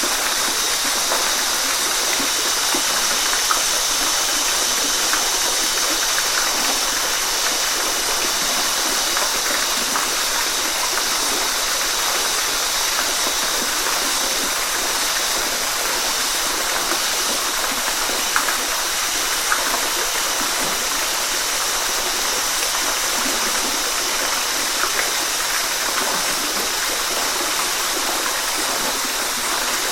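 Waterfall: steady rushing and splashing of falling water, with small splashes dotted through it.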